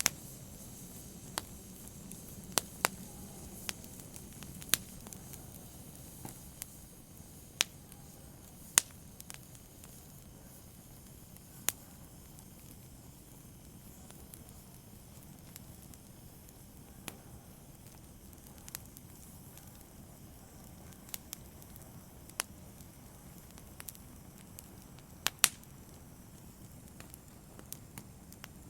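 Wood fire burning, with sharp, irregular crackles and pops over a low hiss.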